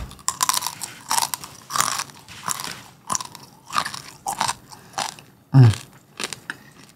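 Crispy chicharrón, fried pork skin with meat attached, crunching as it is bitten and chewed right at the microphone, a crackle every fraction of a second. A short hummed "mm" comes about five and a half seconds in.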